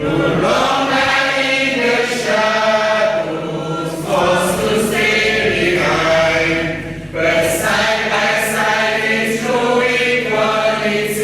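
A group of voices singing together in chorus, in held phrases of a few seconds with short breaks between them.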